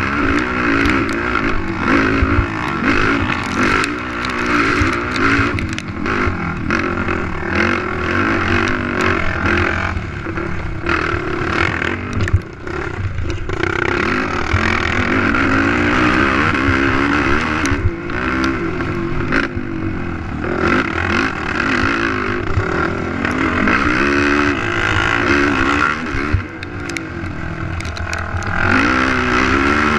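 A racing ATV's engine revving up and down hard as the throttle is worked, with a few sharp knocks from the quad over rough ground.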